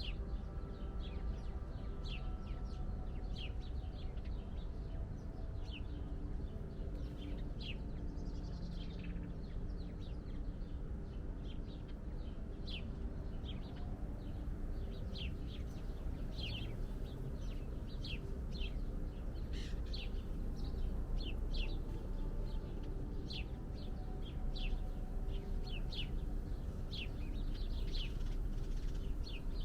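Small songbirds chirping: many short, high chirps in quick succession, coming thicker in the second half, over a low steady background hum.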